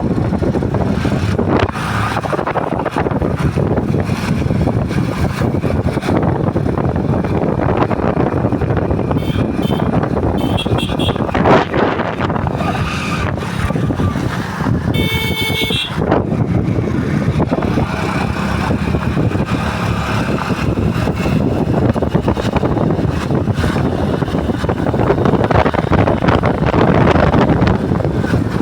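Steady road noise of a moving motorcycle: engine and wind rushing over the microphone. A vehicle horn sounds briefly about halfway through and again near the end.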